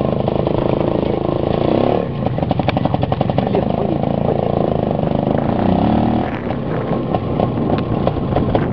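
IZh two-stroke motorcycle engine running under load while riding, its pitch rising and falling as the throttle is opened and closed.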